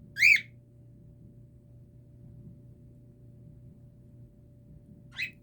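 A pet parrot gives one short, loud chirp about a quarter second in, then a fainter brief chirp near the end. A faint steady hum runs underneath.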